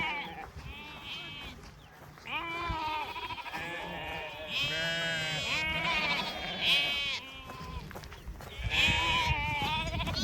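A flock of sheep and goats bleating, with many overlapping calls one after another, some higher and louder, strongest about halfway through.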